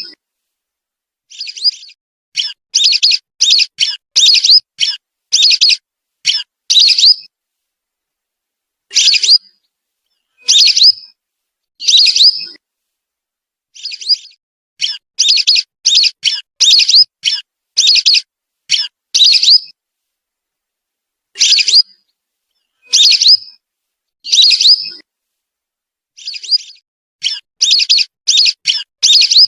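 Whistling duck (belibis) calls from a lure recording: short, high whistled notes, some single and some in quick runs of five or six, with dead silence between the groups.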